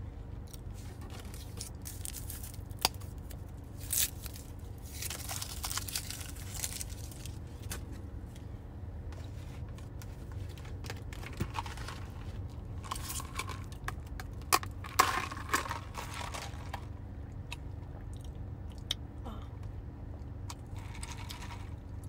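Close-miked chewing and crunching of crunchy fried food, in scattered bursts with a few sharp clicks, over a steady low hum.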